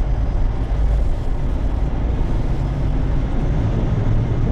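An engine running steadily with a deep, even rumble.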